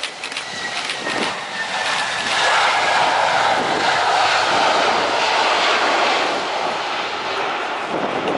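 Airbus A320-200 jet airliner's engines passing close by: a whine falling in pitch over a loud roar that swells to its peak a few seconds in, then eases off. Wind buffets the microphone near the start.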